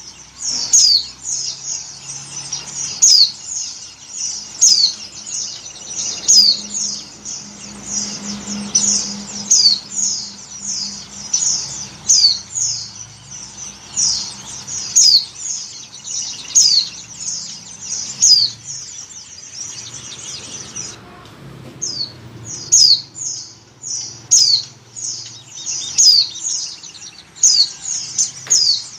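White-eye (pleci) giving rapid, high, thin chirps, each a quick downward sweep, repeated in a dense run with a short break about two-thirds of the way through. Billed as a female in breeding condition calling to males, the kind of call used to lure white-eyes.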